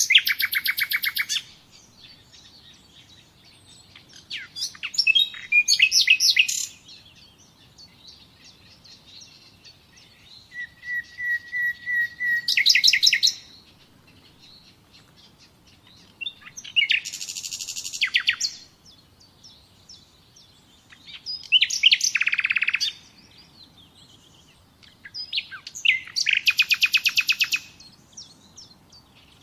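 A songbird singing in separate phrases about every four to five seconds, each one to three seconds long and made of fast trills and rapid repeated notes; one phrase, about ten seconds in, begins as a row of short even notes that speeds into a trill.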